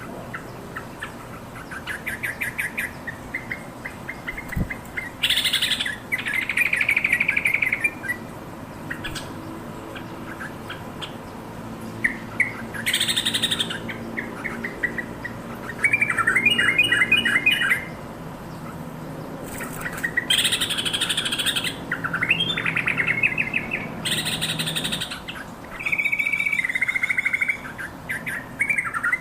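Yellow-vented bulbul calling: short bubbly, chattering phrases recurring every few seconds, interspersed with brief scratchy bursts.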